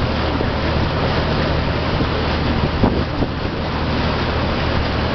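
A boat's engine running with a steady low hum, under a rush of wind on the microphone and water washing past the hull.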